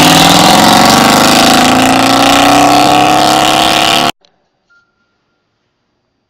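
Pickup truck engine through a very loud exhaust, pitch climbing steadily as it revs up. It cuts off abruptly about four seconds in.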